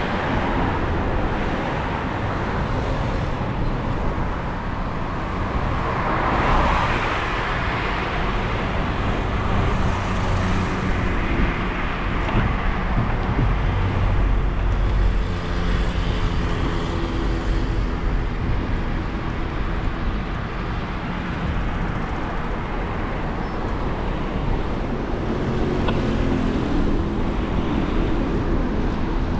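Steady road-traffic noise: motor vehicles running along a street, with a heavy low rumble.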